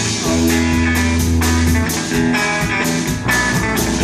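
Rock band playing an instrumental passage without vocals: guitar over sustained bass guitar notes and a steady drum beat.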